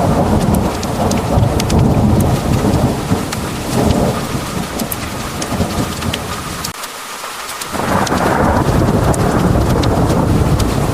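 Heavy rain pouring down with thunder rumbling, many sharp raindrop ticks over the low rumble. The rumble drops away briefly about seven seconds in, then a new roll of thunder swells up.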